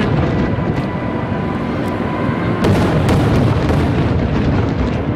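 Fireworks show: aerial shells bursting one after another in a continuous booming rumble, with sharper bangs and crackles, most densely about three seconds in.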